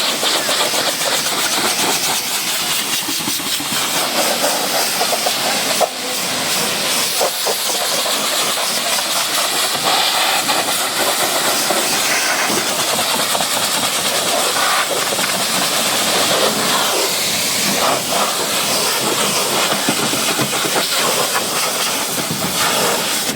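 High-pressure water spray from a pressure washer hitting a car, a steady loud hiss.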